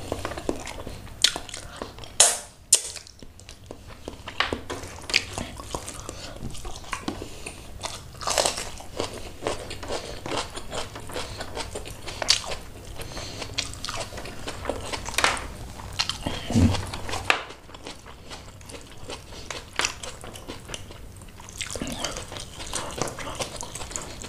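Close-miked eating sounds: chewing and mouth smacking while snapper head in curry sauce is eaten by hand, with many short, irregular clicks and one low thump about two-thirds of the way through.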